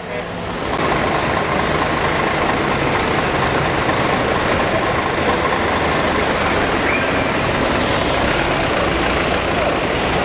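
Heavy trucks driving past, their diesel engines and tyres making a steady, loud noise with no horn or distinct event.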